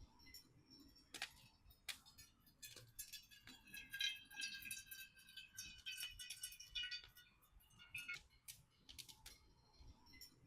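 Faint scattered clicks and light metallic clinking of small hard objects, with a short spell of high ringing tinkles in the middle.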